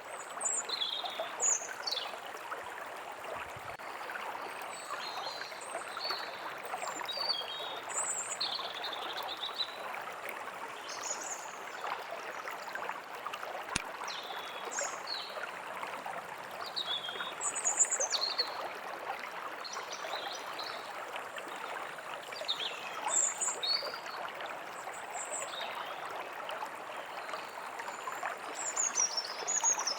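A small stream running steadily, with songbirds calling throughout in short high chirps and quick falling whistles.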